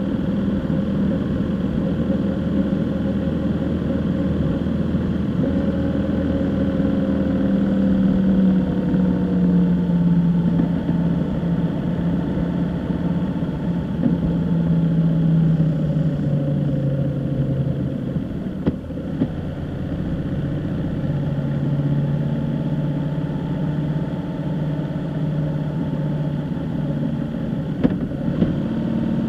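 Vehicle engine running while driving, its note slowly dropping and rising again as the engine speed changes, over steady road noise.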